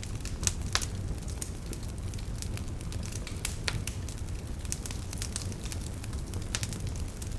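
Wood fire burning in a fireplace: a steady low rumble with irregular sharp crackles and pops, several louder snaps in the first second.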